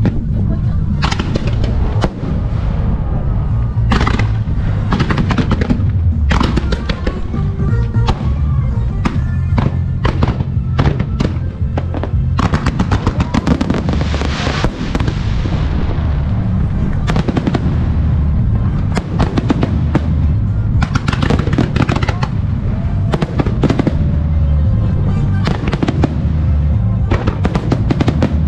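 Music starmine fireworks: rapid aerial shell bursts going off in quick succession, with a stretch of crackling about halfway through, over music played on loudspeakers in time with the shells.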